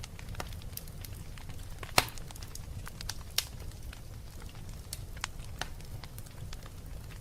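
Wood fire crackling in a fireplace: scattered sharp pops and snaps over a low steady rumble of the flames, with one loud pop about two seconds in and another about a second later.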